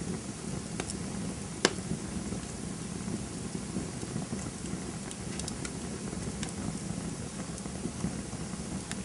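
Campfire burning with a steady low rush of flames and scattered sharp crackles and pops, the loudest pop about a second and a half in.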